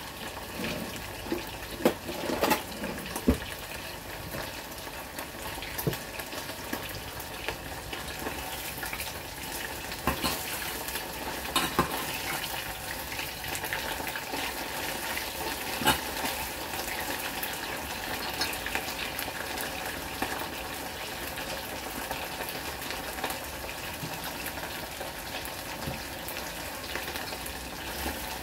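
Pork rib pieces deep-frying in oil in a small stainless-steel pot, a steady sizzle. Now and then a sharp clink of metal tongs against the pot as the pieces are turned.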